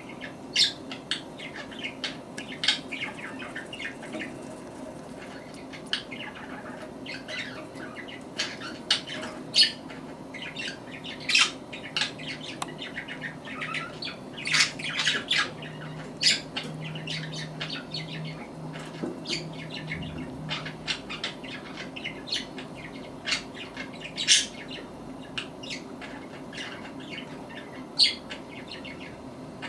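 Budgerigars chirping and squeaking: rapid, irregular short high calls, several a second, with no pause.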